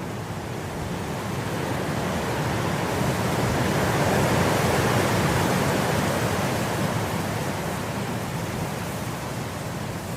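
Wind blowing through grass, a steady rushing that builds to a gust about halfway through and eases off again.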